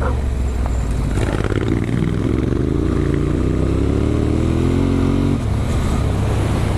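Adventure motorcycle running under way, heard from the rider's camera with wind noise; the engine note climbs gently and drops off sharply about five seconds in, as the throttle is eased.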